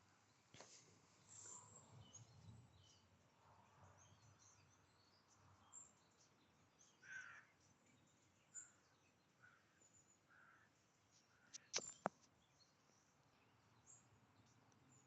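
Near silence: faint outdoor ambience with a few faint, short bird calls, and two sharp clicks close together about twelve seconds in.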